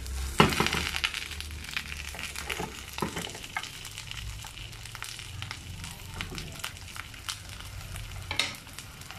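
A banana-leaf-wrapped mackerel parcel sizzling and crackling in coconut oil on a tawa, with many small pops throughout. About half a second in, a wooden spatula knocks against the pan as the parcel is turned over.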